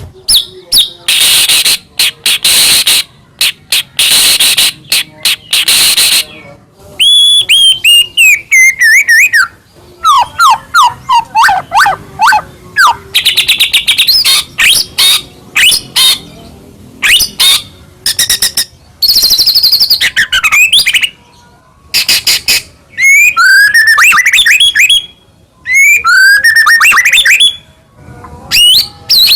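White-rumped shama singing loudly in full, varied song. Harsh rasping chatter notes alternate with runs of clear whistles falling in pitch and quick rising trilled phrases.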